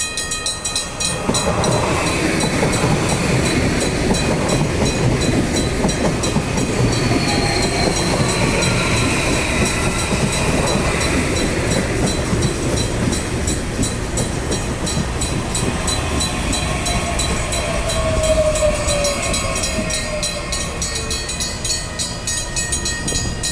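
CPTM electric commuter train running through the station, a steady loud rumble of wheels on rail with thin metallic squeals, one falling in pitch near the end.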